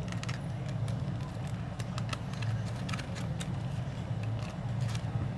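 Chewing a bite of fried pie with a crisp crust, many small crunchy clicks scattered throughout, over a steady low background hum.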